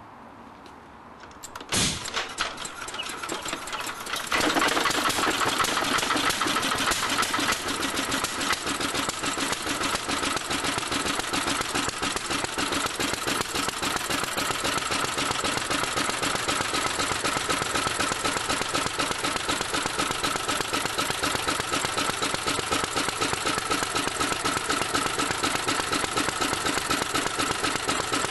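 A Petter A1 single-cylinder petrol stationary engine starting. After a sharp clack about two seconds in and a couple of seconds of uneven firing, it catches and runs steadily with a fast, even beat.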